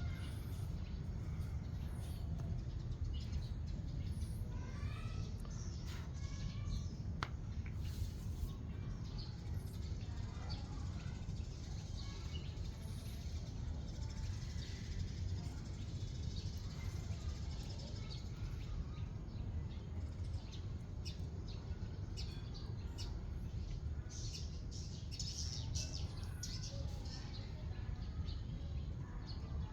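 Small birds chirping now and then over a steady low rumble, with a run of short, quick clicks in the second half.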